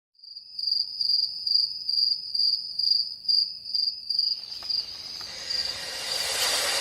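A cricket chirping: a high, steady trill in regular pulses, about two and a half a second. After about four and a half seconds it fades under a rising whoosh that swells toward the end.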